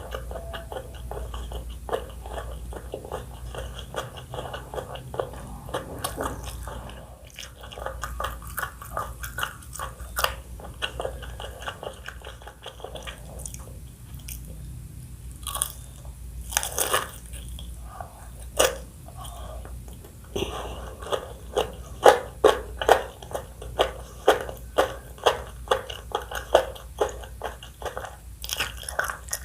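Close-miked eating: a person bites and chews crunchy food with dense, sharp crunching. A run of louder crunching bites comes in the second half.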